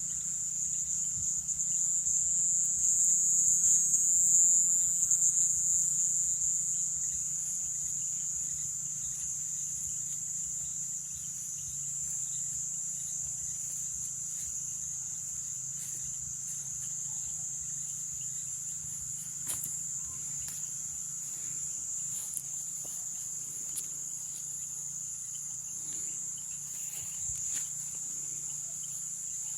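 Night insect chorus of the Amazon rainforest: a steady, high-pitched shrill trill that swells louder a few seconds in and then settles, with a faint low steady drone beneath and occasional faint clicks.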